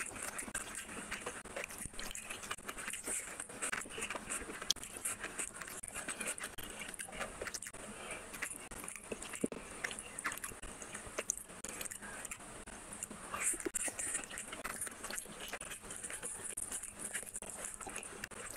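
Close-miked chewing of rice and curry eaten by hand, an irregular stream of wet mouth clicks and smacks.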